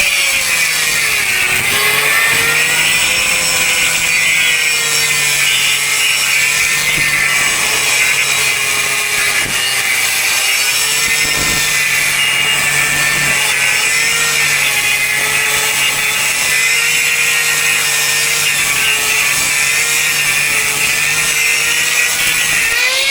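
Angle grinder cutting through thick steel: a loud, steady high whine that drops in pitch as the disc bites in, about a second and a half in, holds there under load, and rises again near the end as the cut is eased off.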